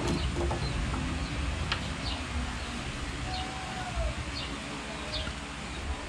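Birds chirping in the background: short, high chirps about once a second, with one lower gliding call midway, over steady low background noise.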